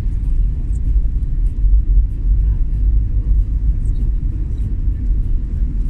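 Low, fluctuating rumble of a vehicle on the move, road and engine noise, with most of the sound deep in the bass.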